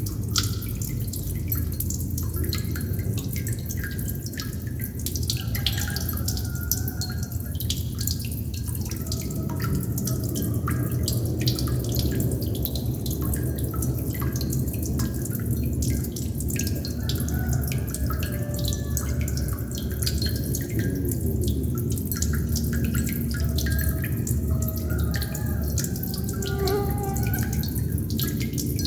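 Water droplets falling fast and irregularly into water, dripping and plinking with small bubbly tones, over a steady low hum.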